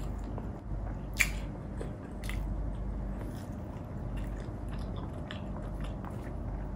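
Close-miked chewing and biting of food, with a sharp click about a second in and a smaller one about a second later, over a steady low hum.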